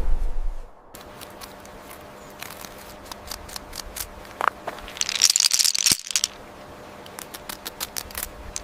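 Porcupine quills clicking and clacking in irregular taps, with a dense, hissing quill rattle about five seconds in, after a brief low whoosh at the start.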